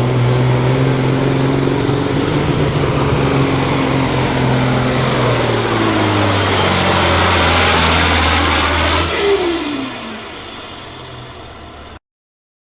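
Kenworth semi truck's diesel engine pulling at full throttle against the weight sled, its pitch sagging slowly as it lugs down under the load. About nine seconds in the throttle comes off: the turbo whistle winds down and the engine drops back, then the sound cuts off abruptly near the end.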